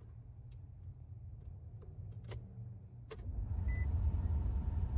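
The ignition key clicks over to on, then the 2003 Nissan Xterra's dash vent blower starts up with a steady rush, with short chime beeps. No fuel pump priming hum is heard, which the owner takes as a sign that the pump has failed.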